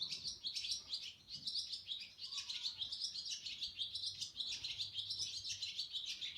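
Barn swallows twittering: a continuous run of quick, high chirps and trills.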